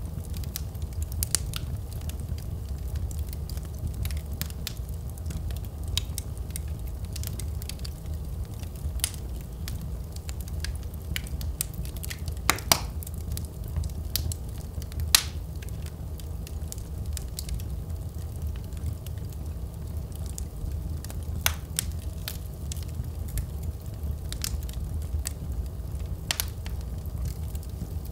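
Wood fire in a fireplace crackling: a steady low rumble of burning with scattered sharp pops, the loudest pops a little under halfway through.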